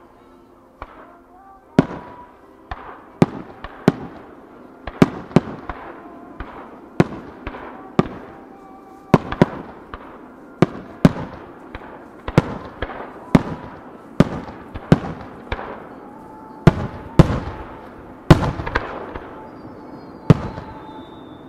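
Aerial fireworks shells bursting in a steady run of sharp bangs, about one or two a second, each trailing off in an echo. A brief falling whistle is heard near the end.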